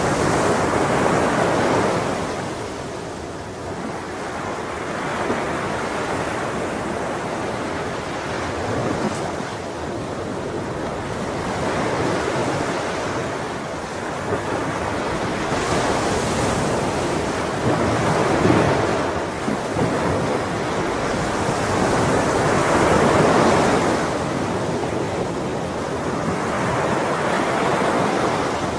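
Ocean waves breaking and washing on a shore, the surf swelling and falling away every few seconds.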